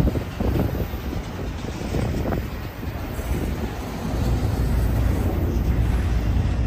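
Double-stack intermodal freight train of container well cars rolling past close by: a steady low rumble of steel wheels on rail, with a few clanks in the first couple of seconds.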